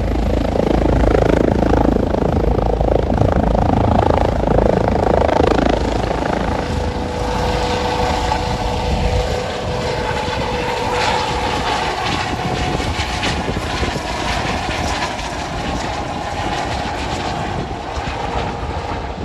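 Loud, continuous mechanical running noise: a deep rumble that eases off about halfway through, leaving a steadier hum.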